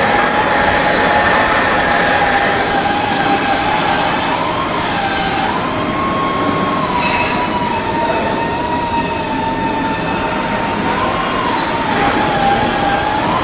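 Loud, steady machine whine over a rushing noise. The whine steps up in pitch about four to five seconds in, holds, then drops back, with another brief rise near the end.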